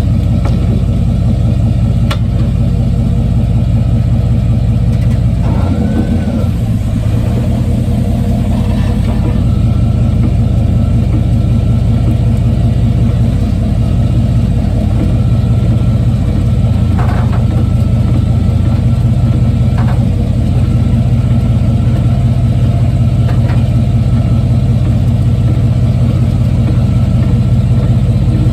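1995 Chevy Silverado's 5.7-litre V8 running steadily, heard from a phone taped underneath the truck, with a deep, even hum. A few faint, brief knocks sound now and then.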